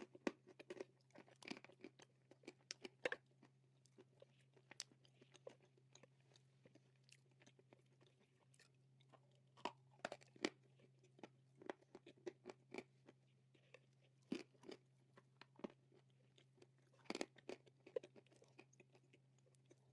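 Close-up chewing and crunching of dry roasted nakumatt clay, with irregular crisp crunches coming in clusters. A steady low hum runs underneath.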